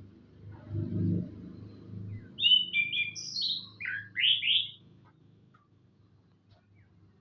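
Orange-headed thrush singing one short phrase of quick, varied whistled notes, lasting about two seconds and starting about two and a half seconds in. A low rumble sits underneath in the first couple of seconds.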